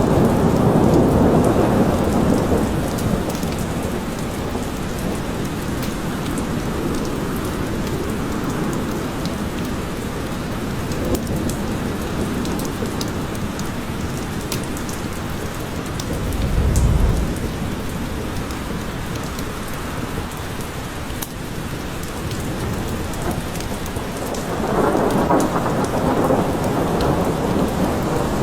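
Steady rain falling in a forest, with low rolling thunder in the first few seconds, a short deep boom about seventeen seconds in, and another rumble near the end.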